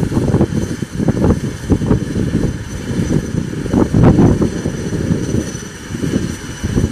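Turboprop engines of an ATR 72-600 running, with a faint steady high whine over a heavy, gusting rumble of wind buffeting the microphone.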